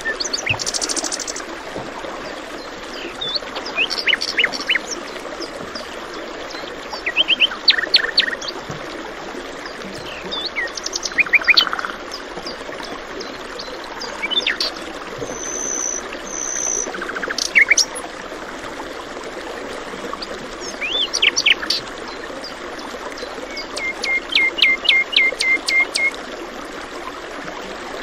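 Several songbirds chirping and trilling in short phrases over a steady rush of flowing water. A fast series of repeated chirps comes near the end.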